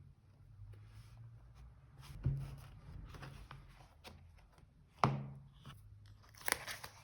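Paper and stationery being handled for diary decorating: soft rustling and crinkling of paper, with three sharp taps on the desk, the loudest about five seconds in.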